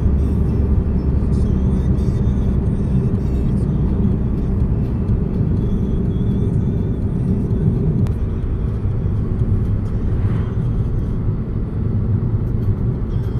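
Steady low rumble of a car driving along a road: engine and tyre noise heard from inside the moving car.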